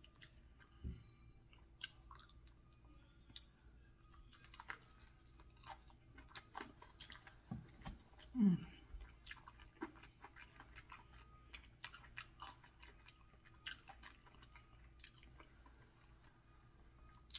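Close-up crunching and chewing of crispy fried chicken: scattered sharp crackles of the fried coating as it is bitten and chewed. A short hum from the eater about halfway through is the loudest sound.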